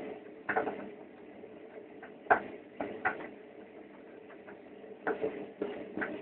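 Washing machine running early in its cycle: a steady hum under irregular knocks and clicks from the turning drum, the sharpest about two seconds in. It is still fairly quiet, before the louder part of the cycle.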